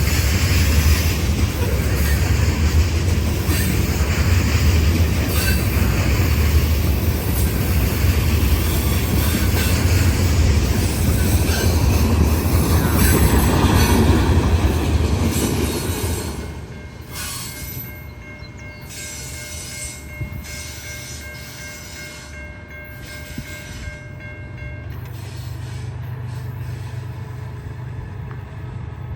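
A train passing close by, with loud rumbling of rail cars and wheels on the track. The noise drops off suddenly about sixteen seconds in, leaving a much quieter background with a few faint steady tones.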